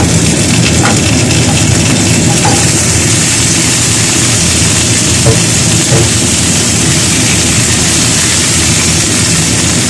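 Food frying in a pan with a loud, steady sizzle over a low hum, and a few light taps of a utensil.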